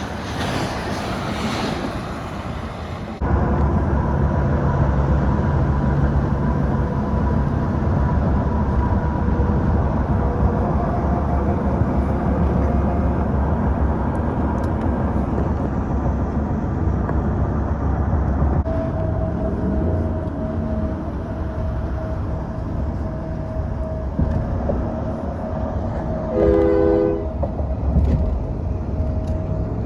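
A train passing with a steady low rumble, and a short chord blast from its horn near the end.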